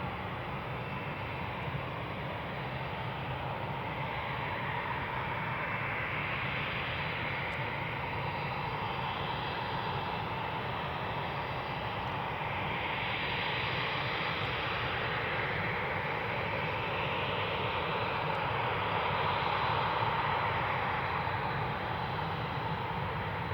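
Douglas A-4 Skyhawk's single turbojet engine running as the jet taxis: a steady jet whine and rush that swells and eases a few times, loudest near the end.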